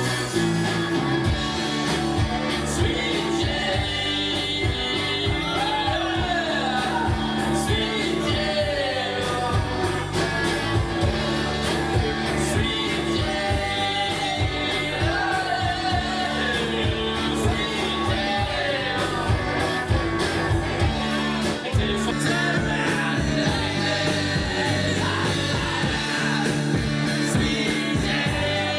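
Rock band playing a song: electric guitar and drums with a sung vocal line.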